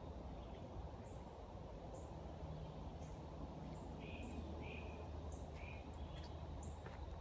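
Birds calling: short high chirps about once a second, with three lower, falling notes about four to six seconds in, over a steady low rumble.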